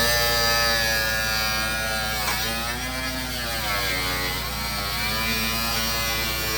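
Corded electric power tool running for cutting on the car, its motor whine dipping in pitch and recovering a few times.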